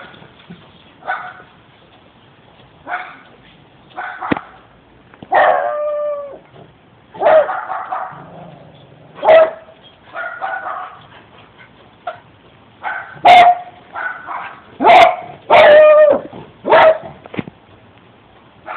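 Puppy barking and yipping in irregular bursts, some barks drawn out into short howls that fall in pitch. The calls come closer together in the last few seconds.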